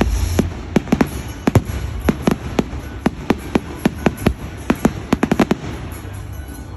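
Fireworks display: a rapid, irregular string of sharp bangs and crackles that thins out and fades over the last second or so.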